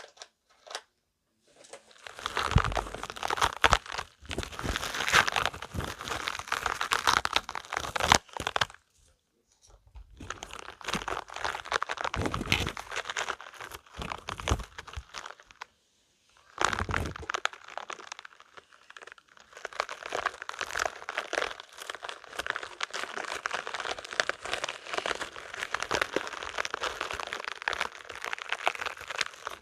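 Spiky rubber balls being squeezed and rubbed by hand, giving a dense run of tiny clicks and scrapes. It comes in long stretches with brief pauses about nine seconds in and again about sixteen seconds in.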